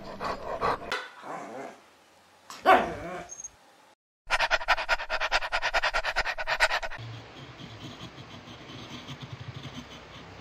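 A puppy whining, with one louder falling yelp a little under three seconds in. Then a dog panting rapidly for about two and a half seconds, followed by faint background noise.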